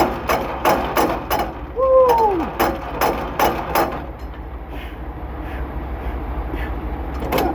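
Semi-trailer landing gear being hand-cranked down to drop the trailer: even metallic clicks, about three a second, with a short falling squeak about two seconds in. The clicks stop about four seconds in.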